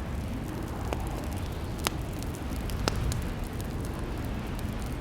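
Crackling fireplace: a steady low rumble of burning logs with small crackles and three sharp, loud pops about a second apart.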